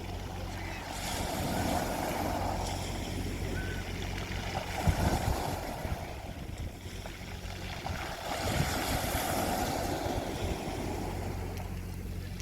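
Sea waves breaking and washing on a beach, the surf swelling and easing several times over a steady low rumble.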